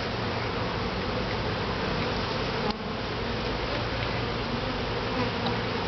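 Honeybees buzzing in a steady, dense hum around an opened top bar hive, with a brief click a little under three seconds in.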